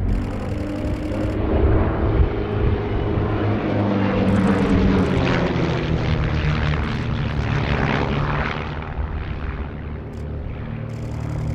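Propeller-driven aerobatic display aircraft flying past, their engine note sliding down in pitch as they go by and easing off near the end.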